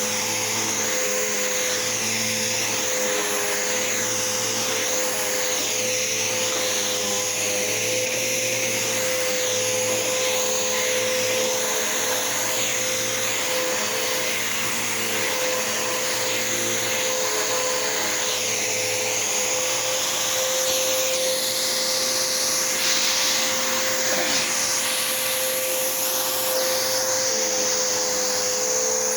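Bissell PowerForce upright vacuum cleaner running on a carpet rug. It gives a steady motor whine with a high hiss that slowly rises and falls.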